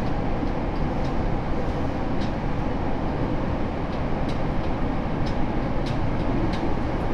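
Onboard running noise of a Tokyo Metro 7000-series train with Hitachi IGBT inverter control: a steady rumble of wheels on rail with scattered faint clicks.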